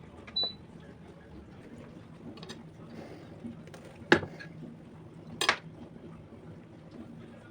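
A few sharp clinks of dishware on a hard surface, the loudest about four seconds in and a brighter, ringing one just over a second later.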